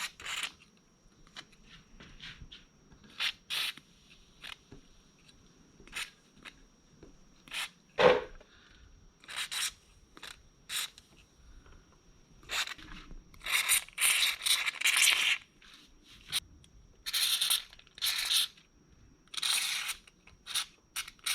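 Aerosol can of white lithium grease spraying in short hissing bursts, with longer sprays in the second half. A single sharp knock about eight seconds in.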